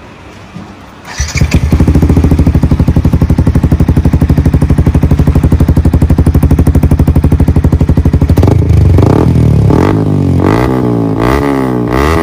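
Yamaha R15 V3's single-cylinder engine through an aftermarket Akrapovic exhaust. It starts about a second in and idles with an even, rapid pulsing beat. From about two-thirds of the way through it is revved up and down repeatedly.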